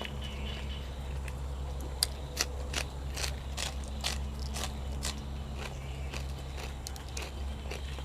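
Close-up chewing and crunching of food by a person eating: crisp crunches come about two or three a second from about two seconds in, over a steady low hum.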